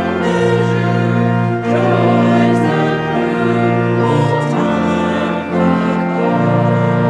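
A hymn on church organ with voices singing, the chords changing about every second or so, then settling on a long held chord near the end.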